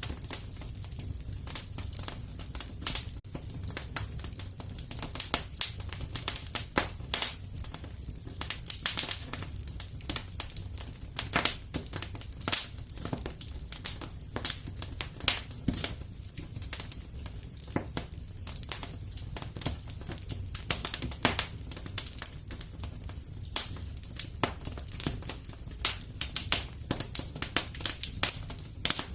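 Wood fire crackling in a fireplace: irregular snaps and pops, several a second, over a steady low rumble of the flames.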